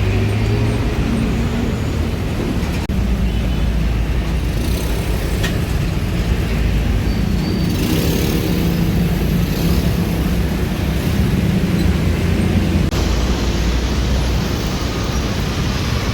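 Road traffic: vehicle engines running and passing, a steady low hum whose pitch shifts over a constant roadway noise.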